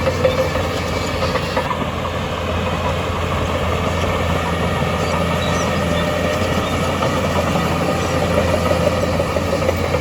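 Diesel engine of heavy earthmoving equipment running steadily, with a low hum and a fluttering mid-pitched engine note.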